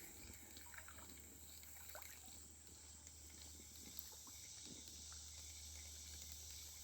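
Near silence: faint outdoor ambience with a steady low hum and a few soft ticks.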